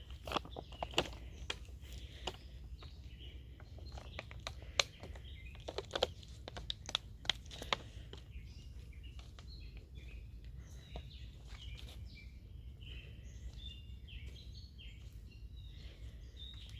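Footsteps on the creek bank with sharp crackles and snaps of twigs underfoot, thickest in the first half. Small birds chirp in the background.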